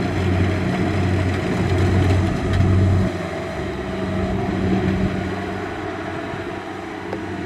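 Kubota DC-70 rice combine harvester's diesel engine running steadily under working load, with the machinery's mechanical clatter underneath. Its low engine hum drops and eases about three seconds in.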